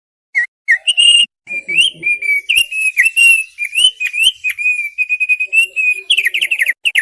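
Thick-billed white-eye (opior paruh tebal) singing: a fast, varied run of whistled, chirping notes that starts about a third of a second in and ends in a quick series of falling notes.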